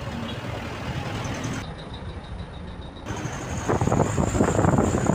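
Heavily loaded truck's engine running with a steady low rumble; about three and a half seconds in a much louder rough crackling rumble sets in.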